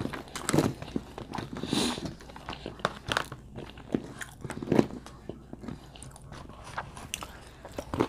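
Close-up chewing and biting of crunchy food, with irregular wet smacks and crunches.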